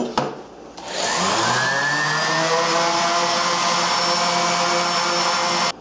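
Small electric motor switched on, its whine rising in pitch for about a second as it spins up, then running steadily until it cuts off abruptly near the end.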